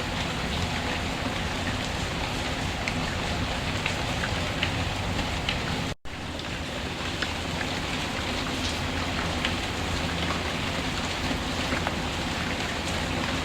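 Steady rain falling, with scattered small ticks over it. The sound drops out for an instant about six seconds in.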